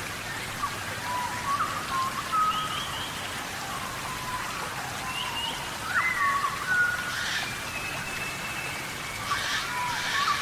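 Steady tropical rainforest rain, an even hiss, with short whistled calls and chirps of rainforest animals over it, busiest about six seconds in and again near the end.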